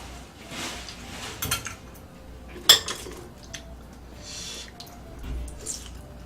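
Eating utensils clinking and scraping against dishes during a meal: a few sharp clinks, the loudest near the middle, with softer noisy handling sounds between.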